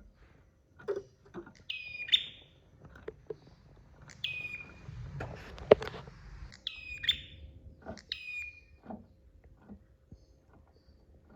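A prenjak (prinia) calling in short, sharp, high chirping phrases, about five of them a second or two apart. Scattered knocks and clicks fall between the calls, the loudest a sharp click near the middle.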